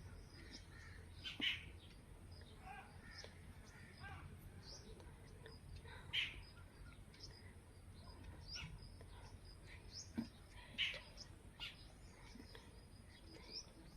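Birds calling: three louder short calls spaced a few seconds apart, among scattered fainter chirps.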